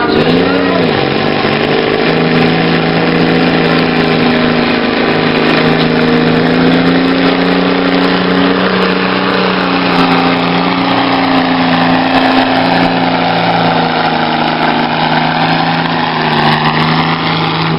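Tractor engine running loud and steady at one pitch, which sags and then climbs back a few seconds before the end.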